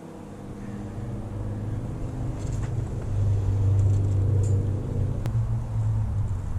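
Jeep's 4.7-litre PowerTech V8 running as the vehicle is moved, growing louder to a peak about three to four seconds in and then easing off. A single sharp click a little after five seconds.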